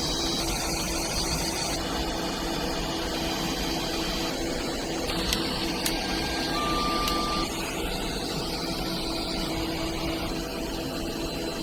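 Steady whir and hum of a Cessna Citation XL's air conditioning running on the ground to cool the aircraft, heard from the cockpit. A faint short beep sounds a little past the middle.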